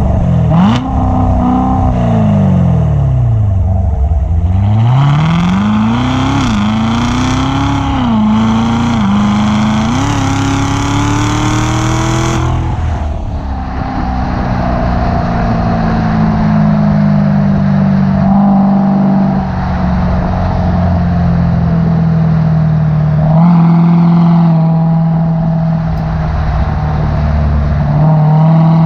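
2016 Corvette Z06's supercharged 6.2-litre LT4 V8 and exhaust under way. The revs rise and fall, then the engine pulls hard with its pitch climbing through several short dips. The throttle lifts off abruptly about 12 seconds in, and the car settles into a steady cruise with a couple of small blips of throttle.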